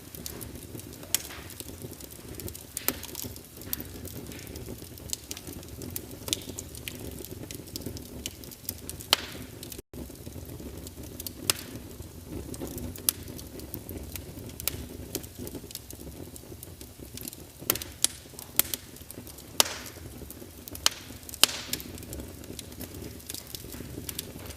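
Wood fire burning in a fireplace: a steady low rush of flames with irregular sharp crackles and pops of burning logs, several louder snaps in the second half.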